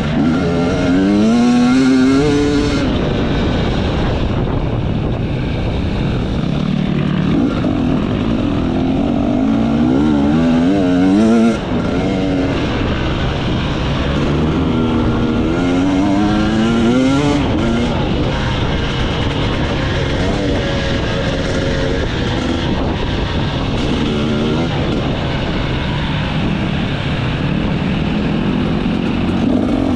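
Enduro motorcycle engine being ridden hard, its pitch rising and falling again and again as the throttle opens and closes, with a brief drop in loudness about eleven seconds in.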